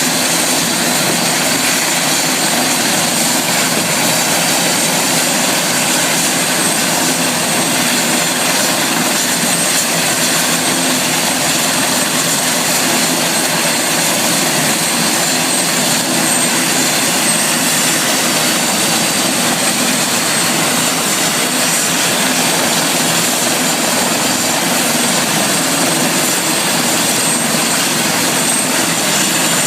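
Helicopter turbine engine and rotor noise, loud and steady, with a thin high whine over it.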